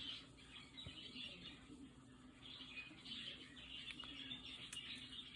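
A budgerigar chirping and chattering faintly in short clusters, at the start and again through the second half.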